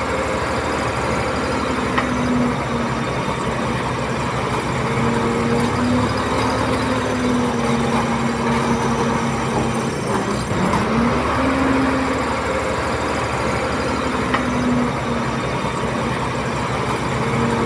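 Komatsu D31P bulldozer's diesel engine working under load, its engine speed sagging and picking up again several times, with a sharp dip and climb about ten seconds in.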